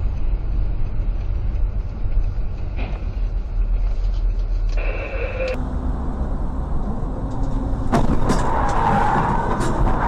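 A vehicle driving, heard as a steady low engine and road rumble. A brief high tone sounds about five seconds in, and a run of sharp knocks and rattles starts about eight seconds in.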